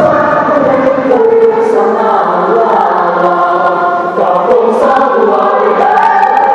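Mixed choir singing in several parts, the voices holding and moving between sustained notes.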